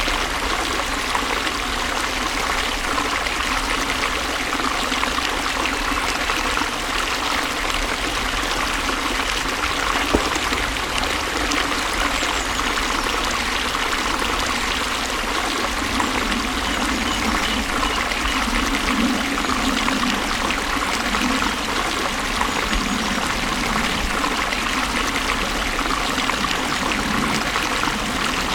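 Water flowing steadily, with a continuous trickling and splashing.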